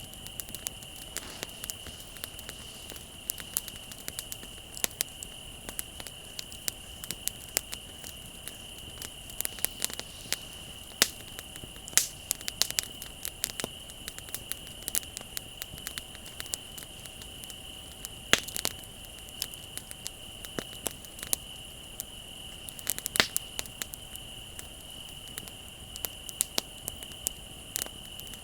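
Wood fire crackling with frequent irregular sharp pops, a few louder snaps now and then, over a steady high-pitched trill of crickets.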